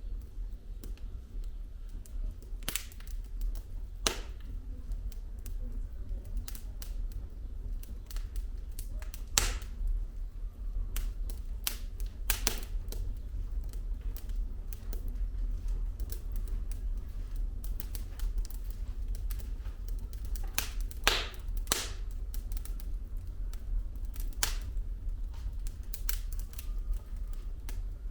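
Wood fire burning in a fireplace: logs crackling with irregular sharp pops, a few louder than the rest, over a steady low rumble of the flames.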